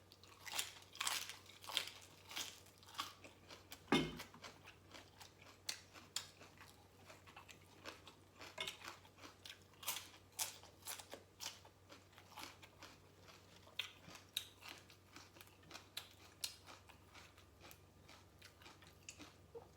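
Close-up crunchy chewing of Lao green papaya salad and raw vegetables: many short crisp crunches, with one louder knock about four seconds in.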